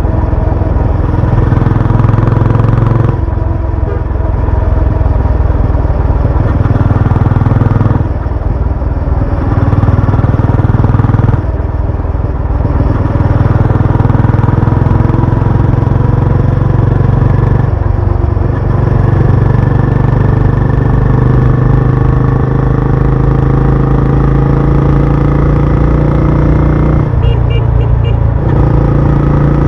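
Benelli Imperiale 400's single-cylinder engine and exhaust, loud, under way on the road. The engine note climbs steadily and dips briefly about five times, as when the throttle is eased for gear changes.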